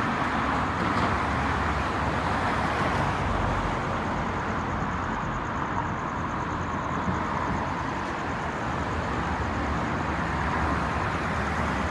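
Steady road traffic noise: cars running and passing on a city street.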